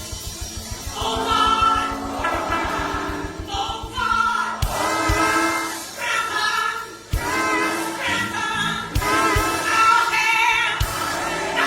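Gospel music with a choir singing, over fast low beats in the first few seconds and then single beats every second or so.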